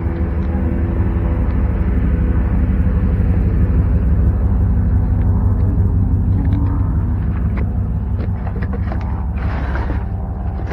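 A motor vehicle running with a steady low rumble, with a few faint clicks near the end.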